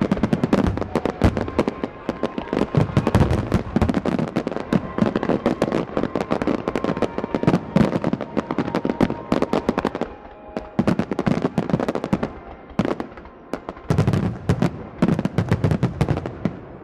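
Fireworks display finale: a rapid, dense barrage of aerial shell bursts and crackling reports, briefly thinning twice before a final flurry that dies away at the end.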